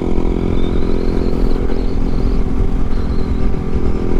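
Yamaha MT-07's 689 cc parallel-twin engine running at a steady cruising speed, its pitch holding level with no revving, over a constant low rumble of riding noise.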